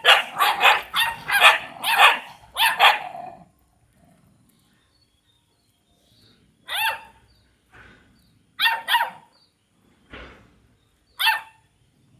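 A dog barking: a quick run of about seven barks in the first three and a half seconds, then single barks and a pair every second or so.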